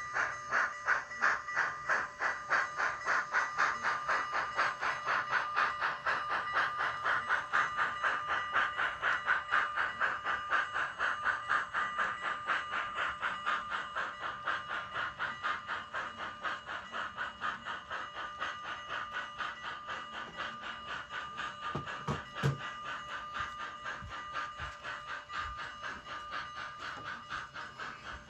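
Digital steam-locomotive sound from a Kato GS4's TCS DCC sound decoder: even, rapid exhaust chuffs with hiss, slowly fading. A brief low knock comes about three quarters of the way through.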